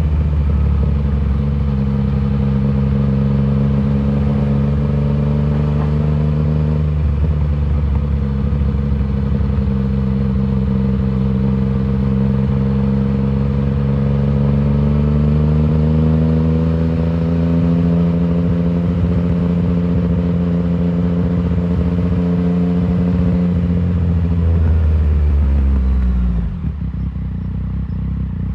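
2019 Yamaha MT-09's inline-three engine running through an Arrow full exhaust system at a steady cruise. The engine note dips briefly about seven seconds in and climbs slowly through the middle. Near the end its pitch falls sharply and the sound drops to a lower, quieter note.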